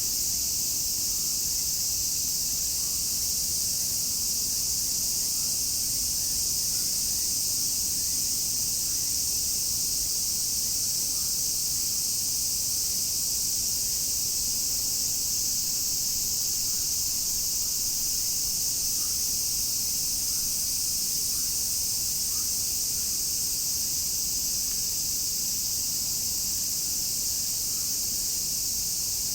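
Chorus of cicadas buzzing in a dense, steady, high-pitched wall of sound that never lets up.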